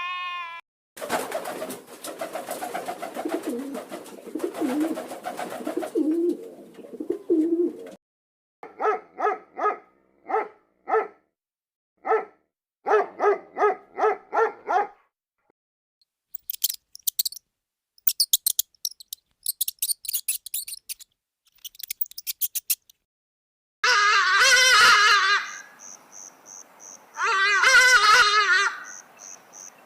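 A run of different bird calls in turn: a long rough call, then short pitched calls repeated about twice a second, then quick high chirps, and near the end two loud warbling calls over a fast high pulsing note.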